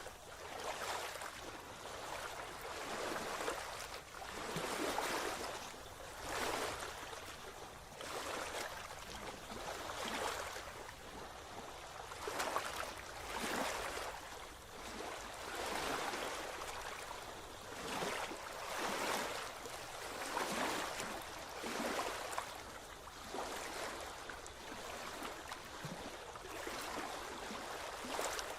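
Water washing in small waves, a swell of splashing noise about every one and a half to two seconds.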